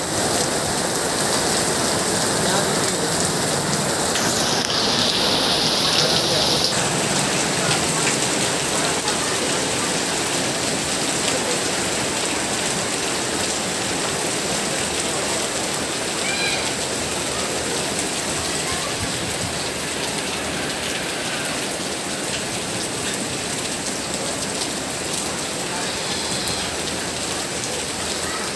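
Steady rain falling and pattering on surfaces. About four seconds in, a brighter, higher hiss joins for a couple of seconds.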